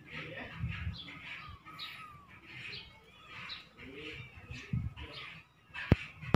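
Small birds chirping repeatedly, a short call every half second or so, with a few soft low thumps and a single sharp click near the end.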